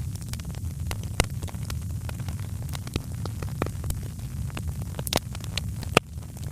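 Fireplace fire crackling: irregular sharp pops and snaps over a steady low rumble of the flames, with one louder pop about six seconds in.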